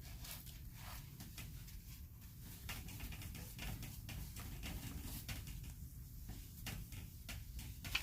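Scattered small clicks, taps and rustles of art supplies being handled and moved about on a tabletop while it is cleared, over a low steady room hum.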